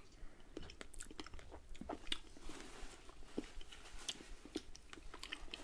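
Close-miked chewing and mouth sounds of people eating fresh strawberries with whipped cream: many small, irregular clicks and smacks.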